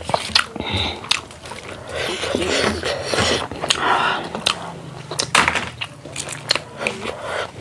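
Close-miked eating: chewing a mouthful of rice and curry, with wet mouth clicks and smacks throughout and a denser stretch of chewing and mixing noise about two seconds in.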